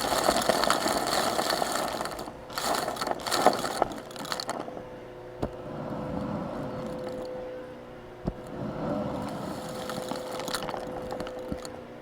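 Vacuum cleaner running with a steady hum while gritty, rocky debris rattles and scrapes through it, loudest in the first few seconds and again in shorter bursts later.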